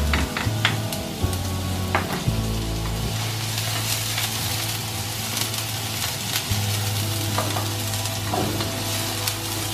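Onions and garlic sizzling in hot oil in a cast iron wok while being stirred with a wooden spoon, which taps against the wok several times in the first couple of seconds.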